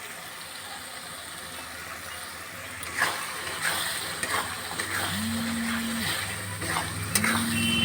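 Spatula stirring and scraping onions and spices frying in a pan, a few sharp scrapes about three to four seconds in. From about five seconds in, a low held hum comes in twice, each about a second long, over the frying.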